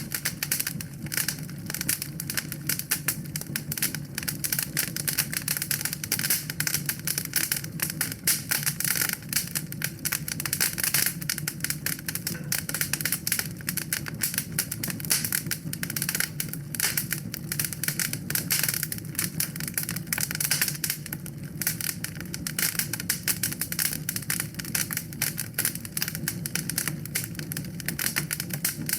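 Wood fire burning in a fireplace, crackling with a dense run of quick pops and snaps over a low, steady rush of the flames.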